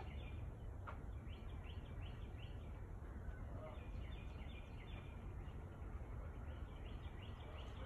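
Small birds chirping, quick short repeated notes, over a faint low steady outdoor rumble.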